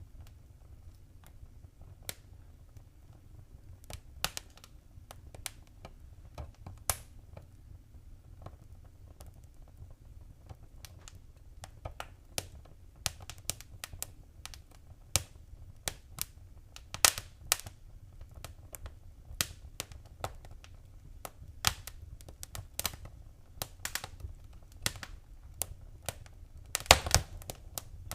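Wood fire crackling in a fireplace: irregular sharp pops and snaps over a low rumble, sparse at first and busier in the second half, with a quick flurry of pops near the end.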